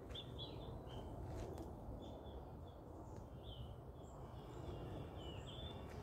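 Small birds chirping in the tree canopy: short high calls, several a second at times, some gliding, over a steady low rumble.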